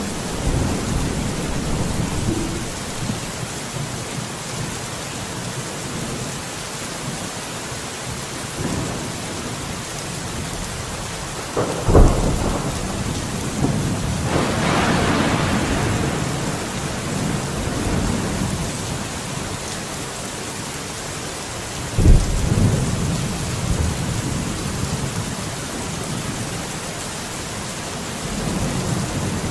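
Steady heavy rain with rolling thunder; two sharp, close thunderclaps crack about twelve seconds in and again about twenty-two seconds in, each followed by a low rumble.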